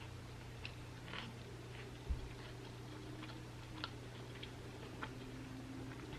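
Quiet chewing of a Subway sandwich: scattered small wet mouth clicks, with a soft low thump about two seconds in, over a steady low hum.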